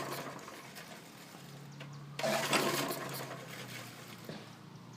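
Lawn mower engine being pull-started without catching: a yank on the recoil starter cord about two seconds in gives a short rasping crank, with the end of an earlier pull at the very start.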